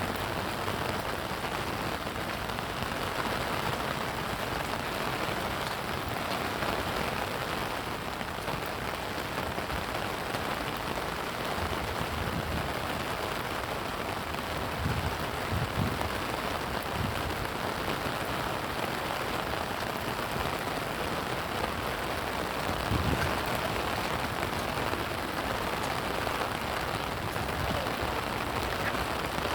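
Steady rain falling and pattering on surfaces, an even hiss throughout. A few brief low thuds come near the middle and again later on.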